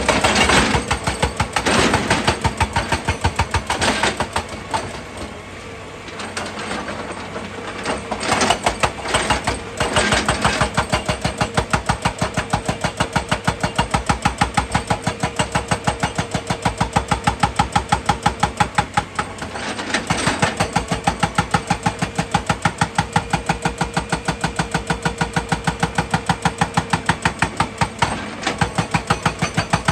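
Excavator's diesel engine running with an even chugging pulse of about three or four beats a second. Louder, rougher bursts come in the first ten seconds and again around twenty seconds in.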